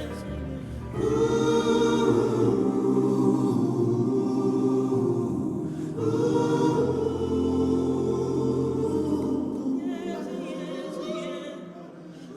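A choir singing long held chords in a gospel worship song, swelling in about a second in and again around six seconds, then fading near the end.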